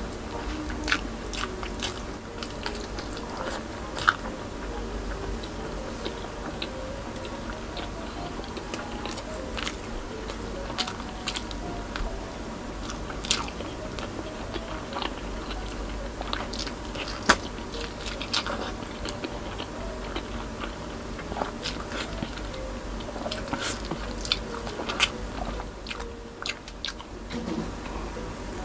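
A person eating close to the microphone: chewing and biting rice and pork in coconut-milk sauce, with scattered sharp mouth clicks and smacks throughout.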